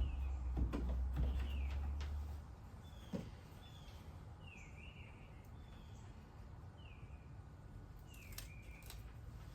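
A bird chirping repeatedly, short downward-sliding calls about once a second. A low rumble and a few knocks fill the first two seconds.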